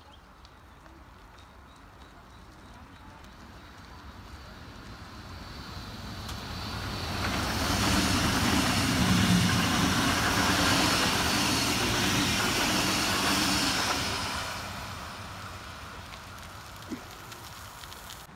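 Electric S-Bahn train passing close by on the tracks: its running noise swells over several seconds, stays loud for about six seconds with a low steady hum, then fades as it goes away. A short click near the end.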